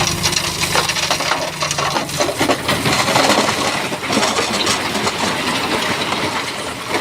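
Stones clattering, knocking and grinding against each other as a Shantui bulldozer pushes them, with the dozer's diesel engine running low underneath for the first two or three seconds.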